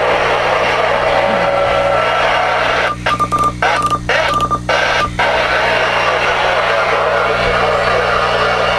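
Uniden Bearcat 680 CB radio receiving a channel full of skip: steady static with garbled distant voices. Between about 3 and 5 s the signal cuts in and out several times and a steady high whistle comes through.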